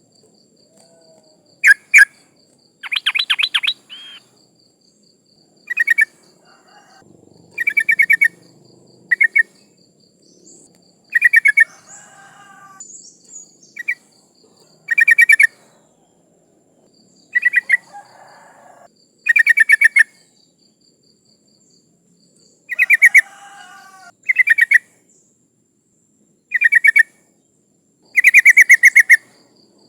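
Yellow-vented bulbul calling: short bursts of rapid, chattering notes, repeated about every two seconds. It is a female calling to attract males.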